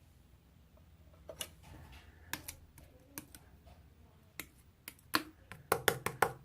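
Slime, one made with wood glue, being pressed and squeezed by hand, giving off sharp, irregular pops and clicks. A few come in the first half, and a quick cluster of louder pops comes near the end.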